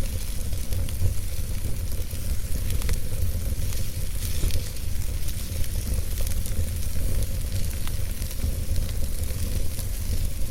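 Wood fire burning in a fireplace: steady low rumble of the flames with a hiss and frequent small crackles and pops of the burning logs.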